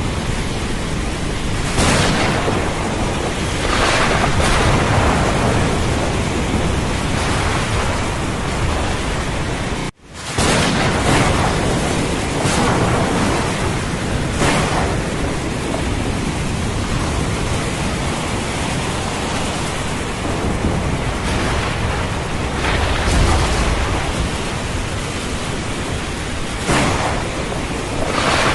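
Thunderstorm: steady heavy rain with thunder rumbling, the sound swelling repeatedly. It cuts out for a split second near the middle, then resumes.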